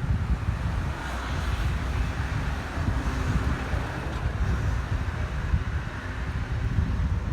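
Wind buffeting the microphone of a rider on a moving bicycle: a steady, uneven low rumble with a hiss above it.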